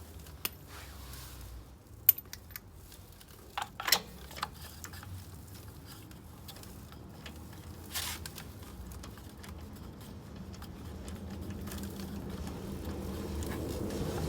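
A few sharp clicks and light knocks, as of small objects being handled, over a low steady hum; a low rumble slowly grows towards the end.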